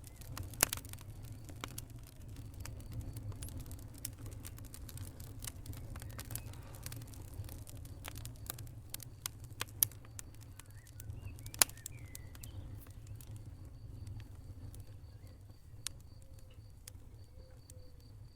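Wood fire crackling: irregular sharp pops and snaps over a low, steady rumble of burning, with the two loudest pops about ten and eleven and a half seconds in.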